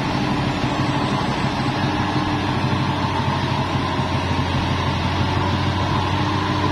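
Truck engine running steadily at an even pitch.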